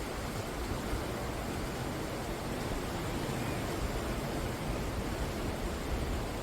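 Ocean waves breaking on the shore: a steady, deep wash of surf with no single break standing out.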